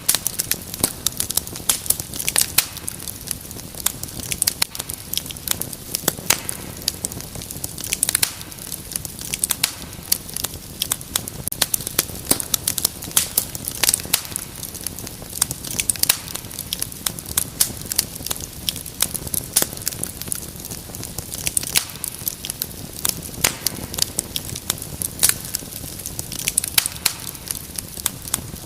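Wood fire crackling in a fireplace: many irregular sharp pops and snaps, several each second, over a steady soft hiss.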